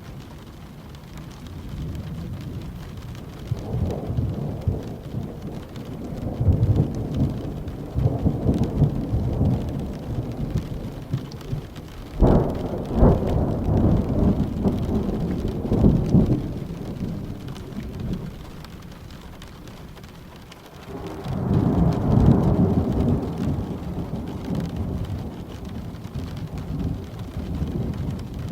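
Steady rain with rolling thunder. The rumbles swell and fade several times, with a sharp crack about twelve seconds in that rolls on for a few seconds, a brief lull, and another long rumble about three quarters of the way through.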